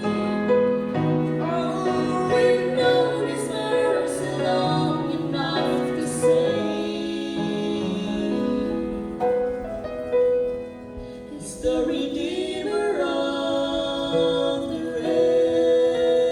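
A slow gospel song sung with piano accompaniment, the voices holding long notes with vibrato.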